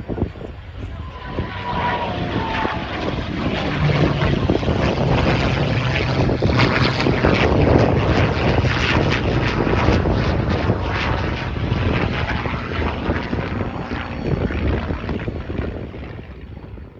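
P-51 Mustang's V12 piston engine and propeller on a flypast: the engine drone grows louder, peaks about halfway through, then slowly fades away.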